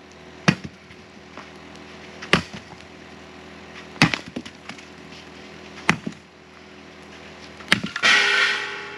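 Firewood being chopped: five sharp blade strikes on wood, about two seconds apart, then a longer splintering crack near the end as a piece splits.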